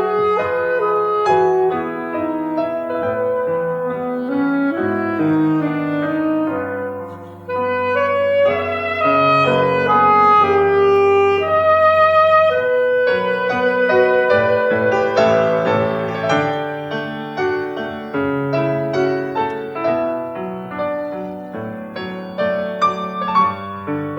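Instrumental music: a violin plays a sustained melody with vibrato over piano accompaniment.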